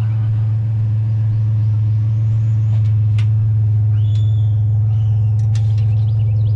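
Truck engine idling, a loud, steady low hum, with a few faint clicks over it.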